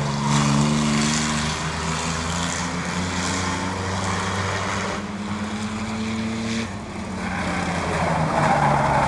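Speedway race trucks' engines running on the track. Several engine notes hold steady and then shift pitch a few times as they go by.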